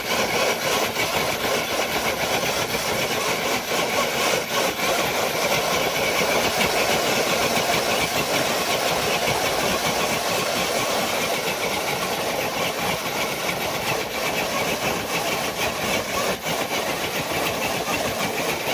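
Electric RC scale truck's motor and geared drivetrain whining steadily under load as it drags a dead-weight sled loaded with 12 bricks.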